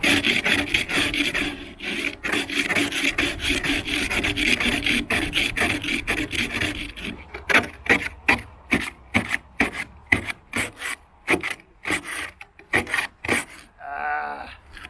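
Ice scraper rasping over thick freezing-rain ice on a vehicle's window glass: fast continuous scraping for about the first half, then separate strokes about one to two a second. A short pitched sound comes near the end.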